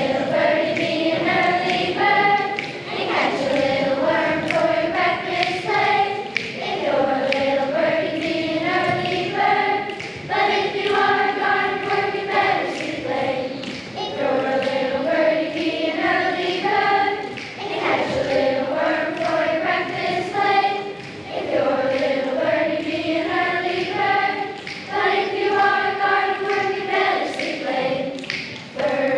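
A choir singing a song, with phrases of about three to four seconds divided by short breaths.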